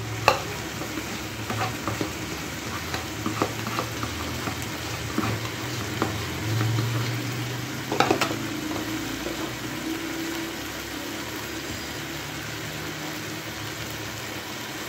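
Chicken and potato pieces in masala sizzling and crackling in a steel kadai, with scattered small pops and a few sharper clicks, the loudest about eight seconds in, over a low steady hum.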